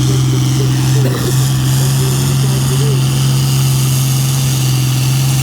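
An engine idling steadily with an even low note at a tractor pull.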